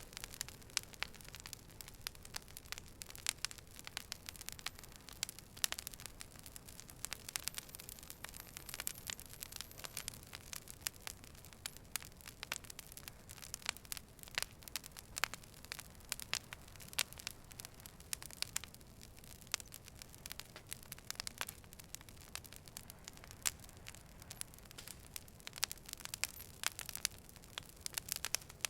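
Fire burning with a low steady hiss and frequent sharp, irregular crackles and pops.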